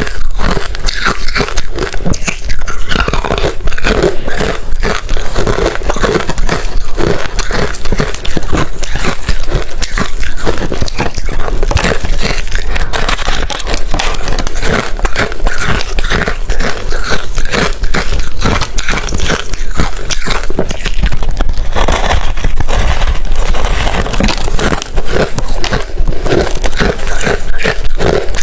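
Ice being bitten and chewed close to the microphone: a continuous, dense run of loud crunching and cracking without a break.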